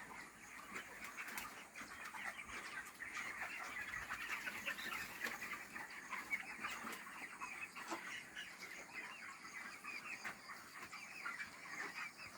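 A flock of 30-day-old broiler chickens peeping and chirping all at once in a steady, dense chorus of short high calls.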